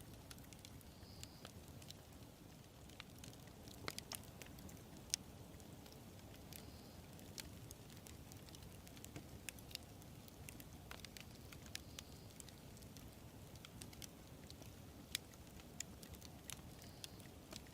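Wood fire crackling faintly: irregular sharp snaps and pops over a low, steady rumble of burning, with the loudest pop about five seconds in.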